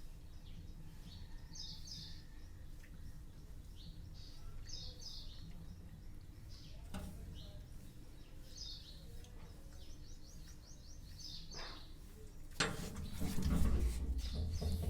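A bird calling in short, repeated clusters of high chirps every one to two seconds over a steady low background hum. Near the end, a louder rustling, rumbling noise lasts about two seconds.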